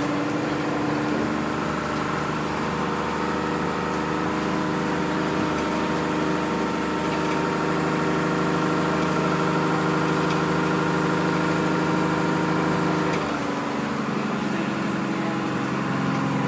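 Vehicle engine idling with a steady hum, which shifts in pitch about thirteen seconds in.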